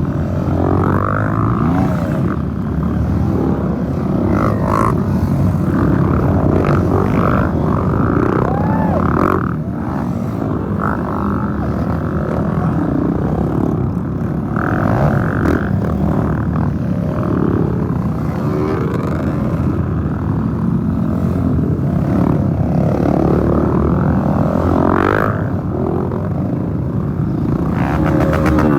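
Several off-road trail motorcycles running and revving as they pass, their engine pitch rising and falling and overlapping without a break.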